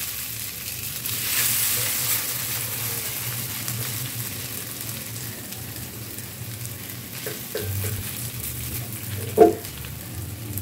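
Grated raw potato sizzling in hot butter and oil in a non-stick frying pan as it is spread and pressed flat by hand, a steady crackling hiss that is strongest in the first couple of seconds. A brief sharp sound stands out about nine seconds in.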